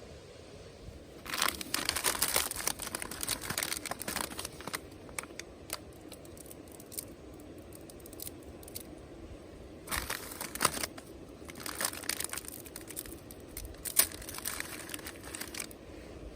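Crinkling and rustling handling sounds that come in bursts: one run starting a little over a second in and lasting about three seconds, then more from about ten seconds in until near the end, with one sharper click among them.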